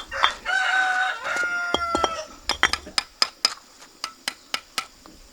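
A rooster crowing once, a long held call of about two seconds, followed by a quick run of about ten sharp taps or clicks.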